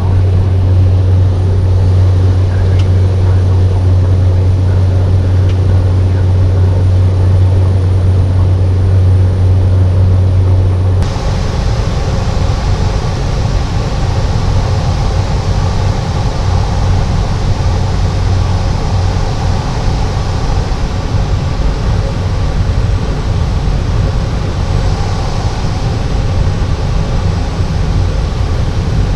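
Cessna 208 Caravan's single PT6A turboprop engine and propeller droning steadily, heard as loud cabin noise. About a third of the way through, the sound changes abruptly: a strong low hum drops away and a broader hiss and higher drone take over.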